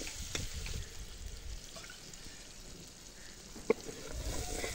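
Chicken and masala sizzling in an aluminium wok while a metal ladle stirs and scrapes through it, with one sharp clink of the ladle against the pan near the end.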